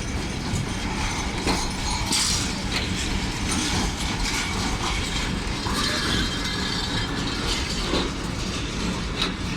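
Karakoram Express passenger coaches rolling into the platform: a steady rattle with clanking of wheels, couplings and running gear.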